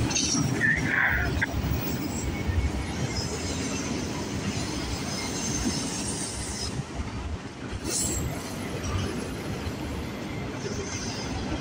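Freight train of enclosed auto rack cars rolling steadily past, a continuous rumble of steel wheels on rail, with a few brief high wheel squeals.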